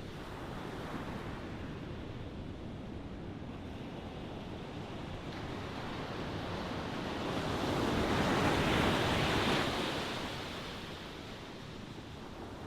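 Ocean waves washing on a shore: a steady surf hiss, with one wave swelling to its loudest about eight to nine seconds in and then ebbing away.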